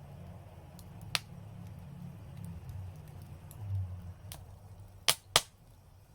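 Fire crackling: a sharp pop about a second in, then two loud pops close together near the end, over a steady low rumble.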